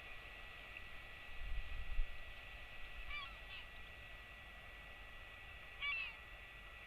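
Faint short bird calls outdoors: a couple of brief calls about three seconds in and a louder cluster near six seconds. A low rumble comes early, and a faint steady high hum runs underneath.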